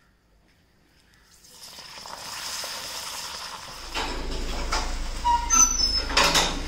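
Papad sizzling as it fries in hot oil in a cast-iron kadai, coming in from near silence about a second and a half in. About halfway through, a low rumble joins with sharp metallic clanks and short high squeaks, loudest near the end.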